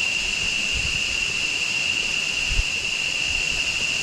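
Steady, high-pitched insect drone over a haze of rushing river water, with a couple of low thumps on the microphone.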